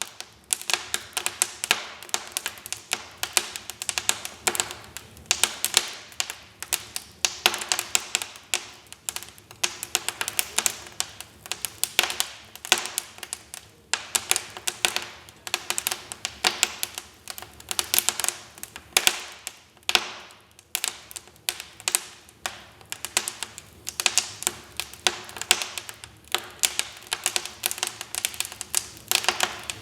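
Wood fire crackling in a fireplace: a dense, irregular run of sharp pops and snaps from the burning logs.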